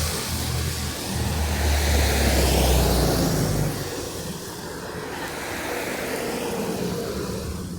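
A motor vehicle passing on the street: a low engine hum that swells to its loudest about a second to three and a half seconds in, then fades, over a steady hiss of traffic.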